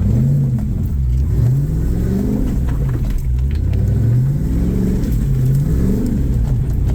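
Off-road rock-crawling rig's engine revving up and falling back about four times as the driver throttles it over a rock ledge.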